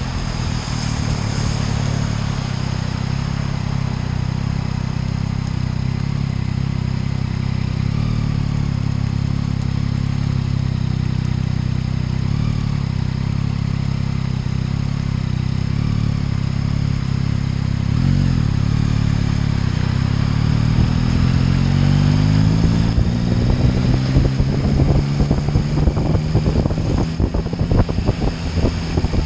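Motorcycle engine running while riding, holding a steady note for most of the time, then rising in pitch as it accelerates about two-thirds of the way through. Wind buffets the microphone near the end.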